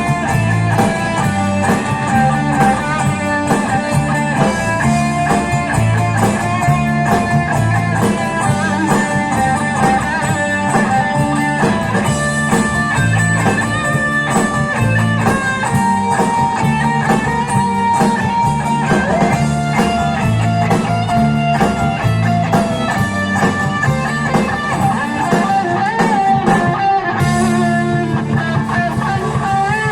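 Live band playing an instrumental passage: an electric guitar melody over bass guitar and a steady beat.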